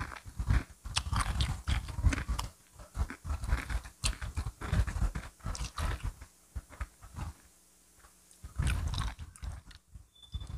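Crispy fried chicken being bitten and chewed: irregular crunches and chewing sounds, with a brief lull about three-quarters of the way through.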